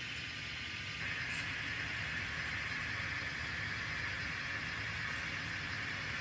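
N scale model train running on the layout track, a steady hiss and rumble of the locomotive and rolling wheels that grows louder about a second in.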